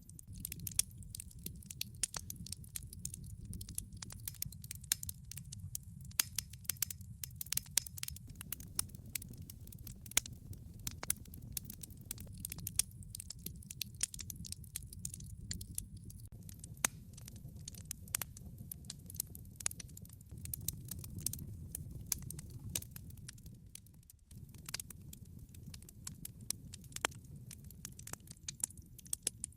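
Wood log fire burning, with many sharp irregular crackles and pops over a steady low roar of the flames.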